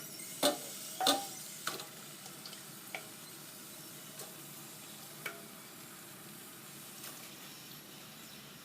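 Raw chicken pieces being added to a pan of fried onion, tomato and spice masala over a low flame, with a faint steady sizzle. Several sharp knocks come in the first few seconds, the loudest about a second in, and a last one about five seconds in.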